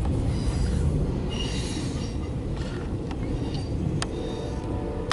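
Loaded CSX autorack freight train rolling past: a steady rumble of wheels on rail, with faint high squeals from the wheels now and then. A single sharp click about four seconds in.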